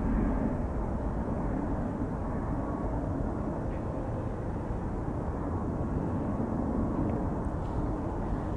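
Boeing 737's jet engines, a steady low rumble with no clear rise or fall.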